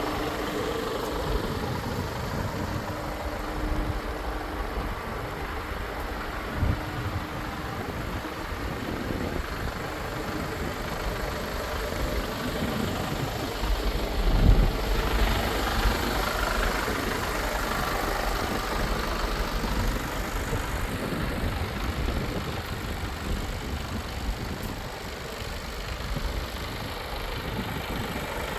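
Mercedes-Benz Actros 1848 LS truck's inline-six diesel engine idling steadily, with a brief louder surge about halfway through.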